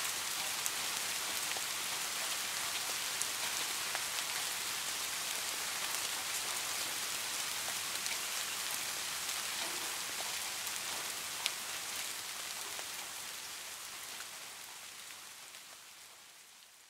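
Steady rain falling, a dense even hiss with scattered sharper drop hits, fading out over the last few seconds.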